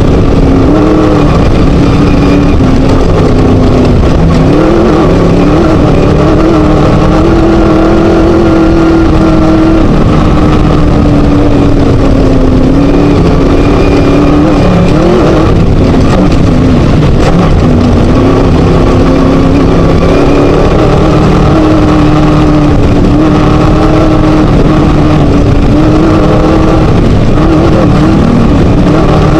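Class 1 desert race buggy's Scat engine at hard throttle, its pitch rising and falling as the driver lifts and gets back on the gas, over heavy road noise and rattle from the rough course.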